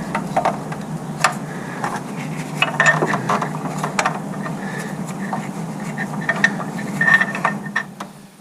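Irregular metallic clicks, taps and rattles of hand tools and engine parts being handled while fitting a timing cover, over a steady low hum. The clicking stops shortly before the end.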